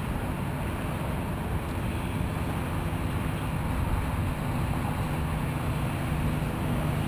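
Parrot AR.Drone quadcopter's rotors running with a steady whir and wind noise on the microphone; a low hum grows stronger near the end.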